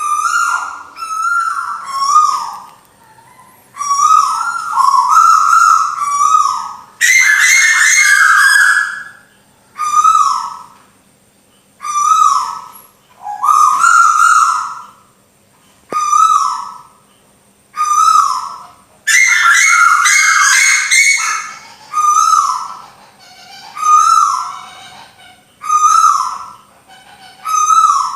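Recorded song of the burung tuwu played as a bird-trapping lure call. Repeated bursts of short falling whistled notes with fast high chirping over them come about every one to two seconds, with brief pauses between.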